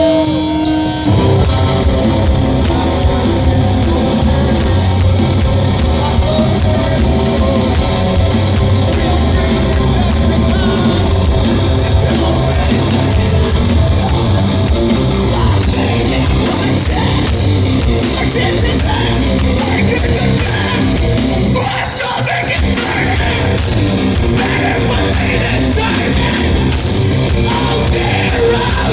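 Heavy rock band playing live at loud volume, with vocals over the band. A held note gives way to the full band crashing in about a second in.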